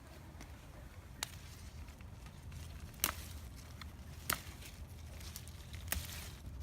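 Four short sharp clicks or knocks, a second or two apart, over a low steady hum.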